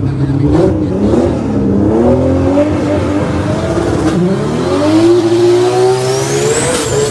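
Drag race car engines revving, the pitch rising and falling several times, then climbing steadily over the last few seconds with a thin high whine rising above it.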